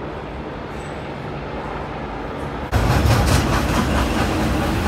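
Steady background noise, then suddenly, about two and a half seconds in, a Red Line rapid-transit train passing close by, loud, with low rumble and some clatter from the wheels on the rails.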